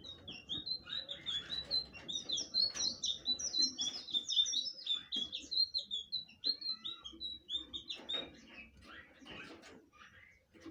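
Blue flycatcher (sikatan biru) singing a fast run of short, high, sliding whistled notes, then trailing off into fewer, fainter notes after about seven seconds.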